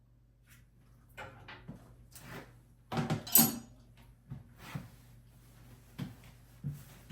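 A series of irregular knocks and clatters of hard objects being handled, the loudest a sharp clatter about three seconds in.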